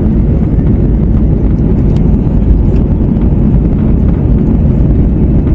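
Airbus A321-111 cabin noise in the climb: a loud, steady low roar of its CFM56 engines and the airflow past the fuselage, heard from a window seat.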